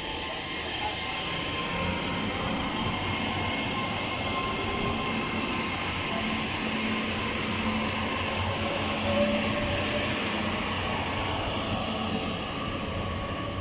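GWR Class 800 bi-mode train departing and running past on its underfloor diesel engines. A high whine rises in pitch over the first couple of seconds as it gathers speed, then holds steady over the rumble of the coaches on the rails.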